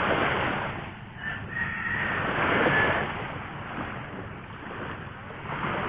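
Sea surf washing on the shore, with wind on the microphone; the wash swells near the start and again between two and three seconds in. A thin high tone sounds briefly between one and three seconds in.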